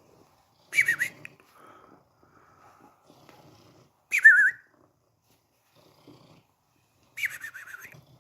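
A drowsy house cat breathing with a high, wavering whistle through its nose, three times, about three seconds apart, the last one the longest.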